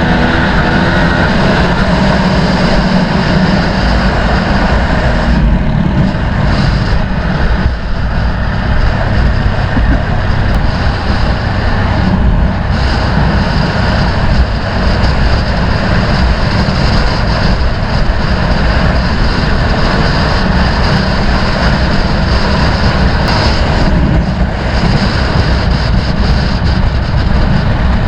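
Dirt-bike engine running under heavy wind rush on the microphone, a loud, steady rumble with no let-up.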